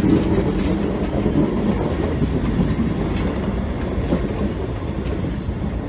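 Vintage passenger coaches running along the track, heard from aboard the train: a steady rumble of wheels on rails, with a few faint clicks from rail joints.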